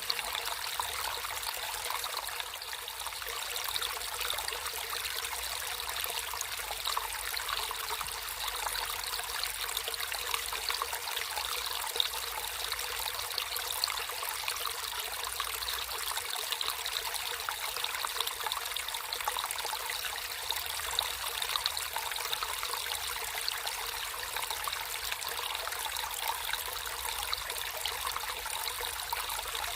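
Water trickling and splashing steadily in a small stream, a continuous bubbling wash with many small splashes.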